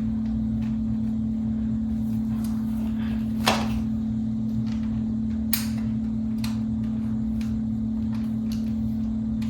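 Scattered clicks and knocks of box-fan parts being handled, with a sharp click about three and a half seconds in and another about two seconds later. Under them runs a steady low hum.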